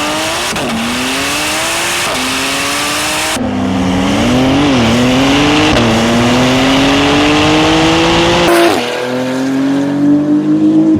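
Twin-turbo Porsche 911 flat-six at full throttle in a drag race, its pitch climbing steadily through each gear and dropping sharply at each quick upshift, several times over.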